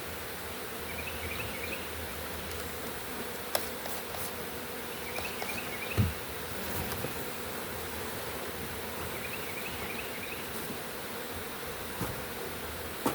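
Honey bee swarm buzzing steadily around an opened hive box. A few knocks sound through it, the loudest about six seconds in, and a faint short chirp repeats about every four seconds.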